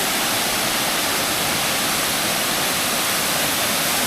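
Waterfall pouring steadily: a constant rushing of falling water.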